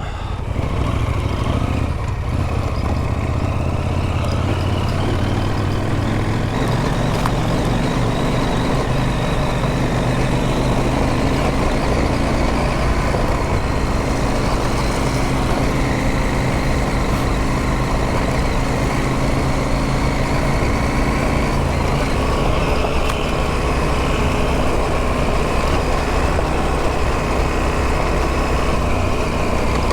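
Adventure motorcycle riding along with its engine running steadily, the revs shifting a little, over a constant rush of riding noise.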